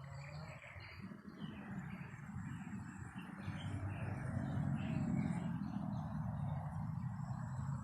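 Wind buffeting the microphone in a low rumble that swells in a gust around the middle, with small birds chirping repeatedly in the background.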